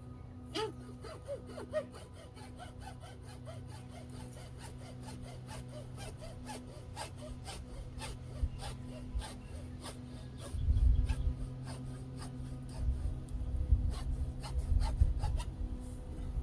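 Alkathene (polyethylene) pipe being cut to length by hand: a steady run of short cutting strokes, with heavier low handling noise from about ten seconds in.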